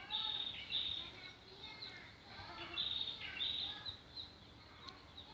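Wild birds calling outdoors: repeated short, high chirps every half second or so, with lower warbling notes between them.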